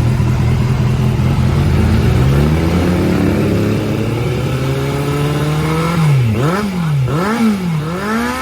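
Kawasaki Z800's inline-four engine running through an Arrow Pro Race Series exhaust: steady at first, then the revs climb slowly for a few seconds. About six seconds in it turns to quick repeated throttle blips, rising and falling about every two-thirds of a second.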